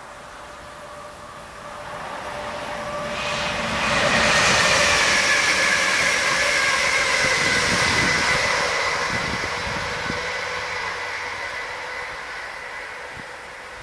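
Red DB regional electric multiple unit passing at speed. Wheel and rushing noise builds over a few seconds, then fades, with a high electric whine that drops slightly in pitch as the train goes by.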